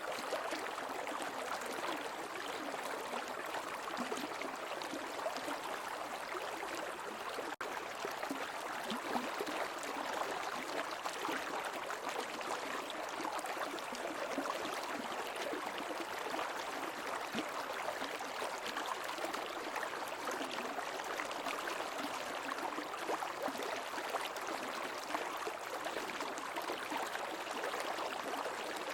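Stream water flowing and splashing steadily, an even rushing with little low rumble. There is a momentary dropout about seven and a half seconds in.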